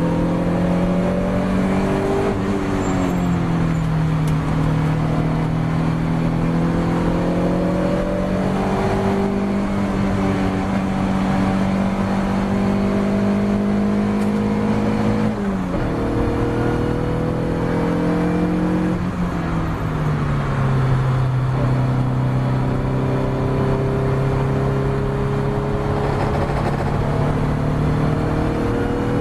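Ginetta G40 race car engine under load, its pitch climbing slowly and dropping sharply a few times as it shifts gear or lifts.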